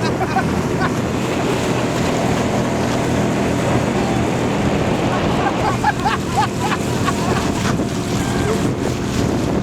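Small aluminum boat's outboard motor running steadily under way, with wind buffeting the microphone and water rushing past. About six seconds in, a quick cluster of short high chirps cuts through.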